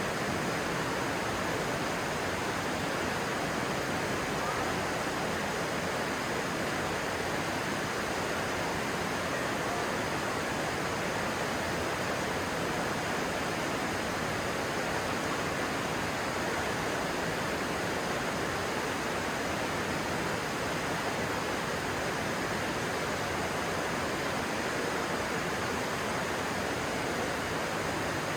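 Stream water rushing in a steady, even hiss, with no change in level.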